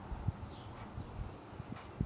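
Robins giving short chirps that fall in pitch, two in this stretch, one faint about half a second in and one near the end, over irregular low thumps, the loudest near the start.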